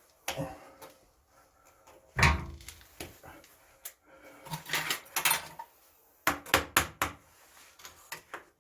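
Scattered knocks and clatter of objects being handled, with a heavy thump about two seconds in and a quick run of sharp clicks near the end.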